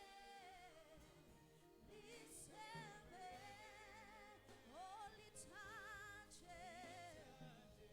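Quiet gospel-style worship song: a sung melody with a strong wavering vibrato over a steady, sustained accompaniment.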